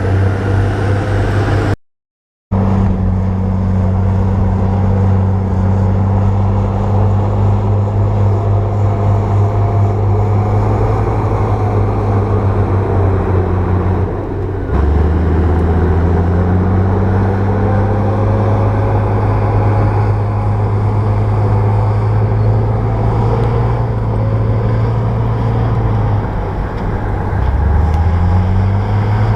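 Bulldozer's diesel engine running steadily under work, with a brief cut to silence about two seconds in. Near the end the engine note drops and then rises again as it revs up.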